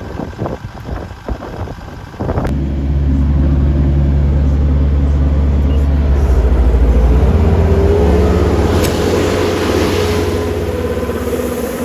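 An engine running unevenly at low speed, then jumping about two seconds in to a loud, steady higher run. A hiss builds up over it near the end.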